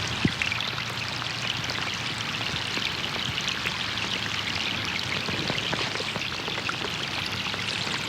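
Steady rain falling on a pond, with many small drops pattering on the water surface and one louder drop plopping about a quarter of a second in.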